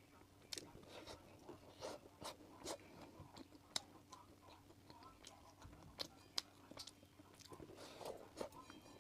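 Close-up chewing of a mouthful of fried rice and sausage: soft wet smacks and mouth clicks several times a second.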